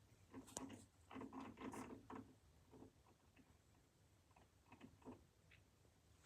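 Near silence in a small room, broken by faint scattered taps, clicks and rustles of small things being handled, with a slightly busier stretch about a second in.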